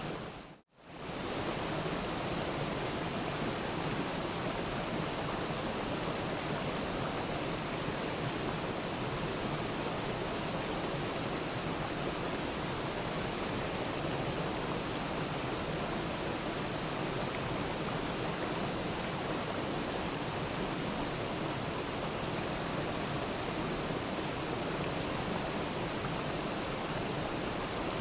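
Waterfall with a steady, even rush of falling water. Just after the start it drops out sharply to near silence for a moment and fades back in within about a second.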